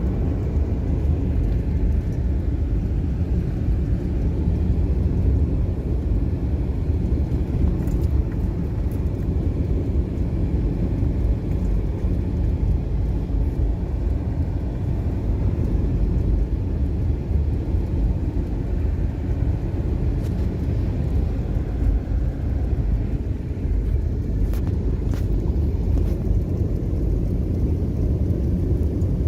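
Steady low rumble of a car in motion: engine and road noise heard from inside the vehicle.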